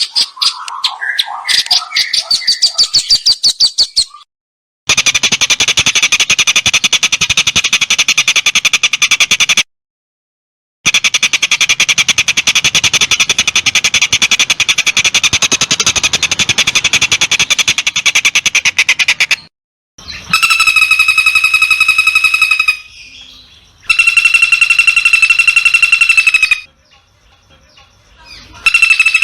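Spliced recordings of songbird song for training a long-tailed shrike (cendet) to mimic. First come rapid chattering notes, then two long runs of fast, dense buzzy trills. Near the end there are three bouts of a steady, high, ringing whistle. Each section stops and starts abruptly at edit cuts.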